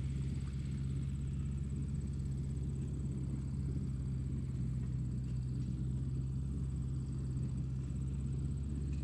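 Tractor engine running steadily: a low, even drone with a faint high whine above it.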